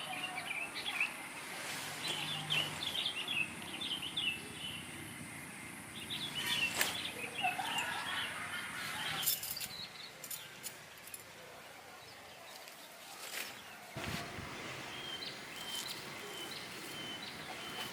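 Small birds chirping and twittering in bursts over outdoor ambience, with a few sharp clicks or knocks in between and a thin, steady high note near the end.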